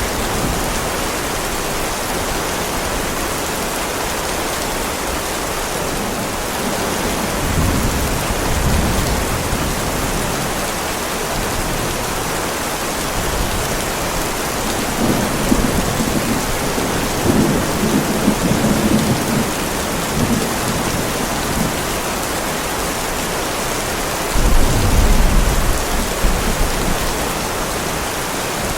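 Heavy rain falling steadily on a driveway, with low rolls of thunder about a quarter of the way in, again through the middle, and a louder one near the end.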